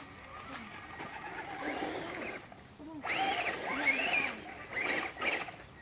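Electric RC car motor whining up and down in pitch several times as the throttle is worked, loudest in the second half.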